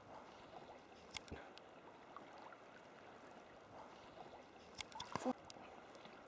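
Sea kayak paddling: faint water trickling and lapping as the paddle dips, with a sharp splash about a second in and a few more splashes near the end.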